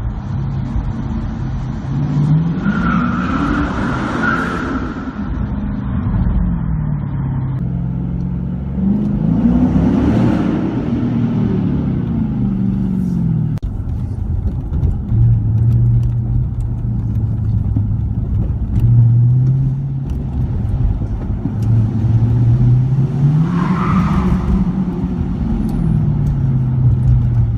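Car engine and exhaust revved three times, each rev rising in pitch and falling back, settling to a steady idle in between.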